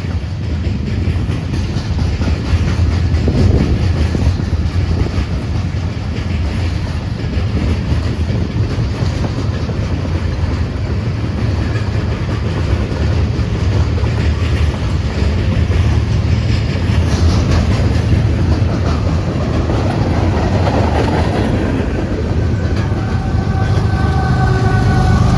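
Freight train rolling past, a steady heavy rumble with the wheels clicking over the rail joints. A steady high ringing tone joins near the end.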